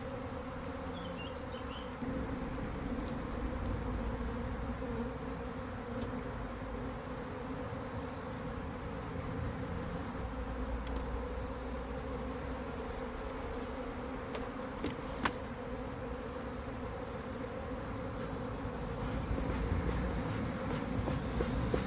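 Honeybee colony buzzing around its hive, a steady dense hum, with many bees gathering outside the hive after it has swarmed. A single sharp click about 15 seconds in.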